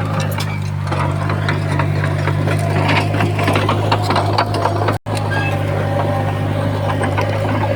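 Komatsu D20P crawler bulldozer's diesel engine running steadily under work, with many sharp clacks and cracks over the drone. The sound drops out for an instant about five seconds in.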